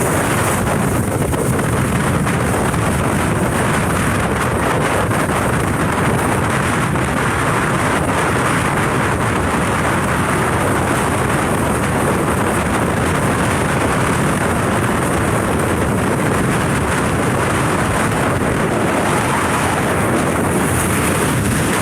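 Steady rush of wind on the microphone from a moving motorbike, with road and engine noise blended underneath.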